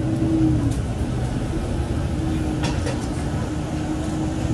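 KiHa 40 diesel railcar's engine running steadily during yard shunting, a low hum with a held tone that dips about a second in and then returns.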